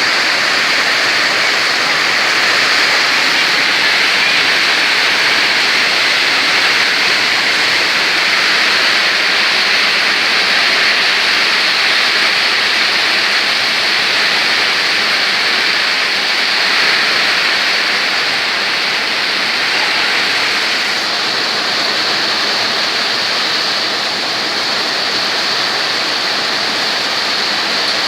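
Heavy rain pouring down in a strong windstorm: a steady, loud rushing of rain and wind.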